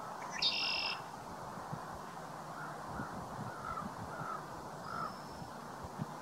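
A bird's single loud, harsh call about half a second in, over a steady background hiss. A few seconds later comes a run of about five soft, short, lower notes.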